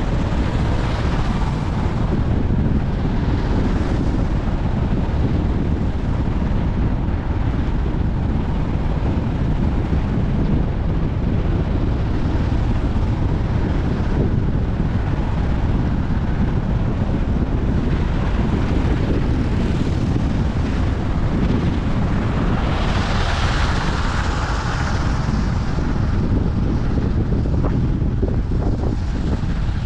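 Wind buffeting the microphone over steady road rumble from a moving vehicle. A brighter hiss swells and fades about two-thirds of the way through.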